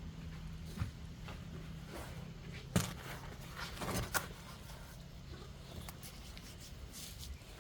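A few scattered light knocks and taps, the loudest near the middle, over a low steady hum.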